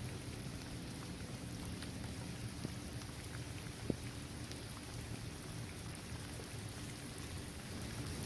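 Steady rain falling on a hard basketball court and on trees and grass, with scattered drops ticking and one sharper drop about four seconds in.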